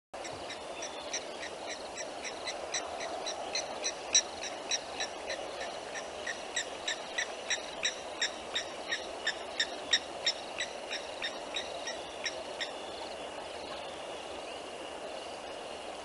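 A bird calling a long run of short, evenly spaced notes, about three a second, that stops near the end. A steady rush of river water runs underneath, and a thin, steady insect trill carries on after the calls end.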